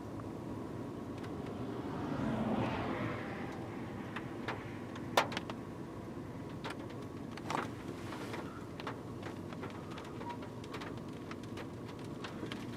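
Steady low rumble of a car's interior, with a swell of wind-like noise a couple of seconds in and a few sharp clicks, the loudest about five seconds in.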